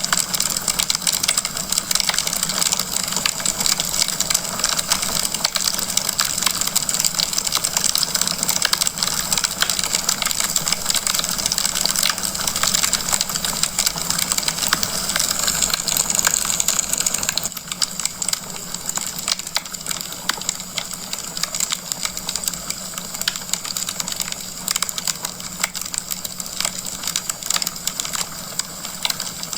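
Wood fire crackling in a fireplace: a dense stream of small pops and snaps over a steady hiss, a little quieter from just past halfway.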